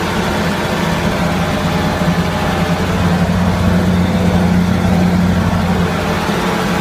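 Tractor engine running steadily at a low, even pitch, a little louder through the middle.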